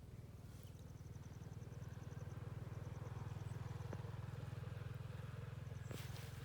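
A low, steady engine drone that slowly gets louder, with a faint high ticking trill in the first half.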